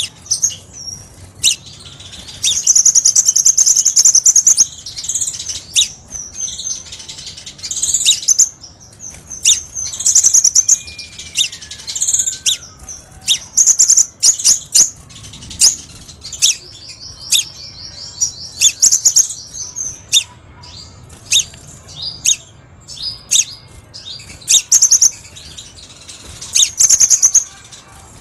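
Crimson sunbird (kolibri sepah raja) singing: sharp, high chirps in quick runs, broken by several buzzy trills lasting a second or two.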